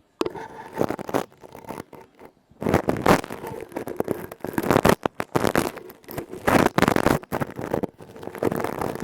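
Close-miked scratching and scraping on an object, in irregular strokes of varying length with short pauses between them.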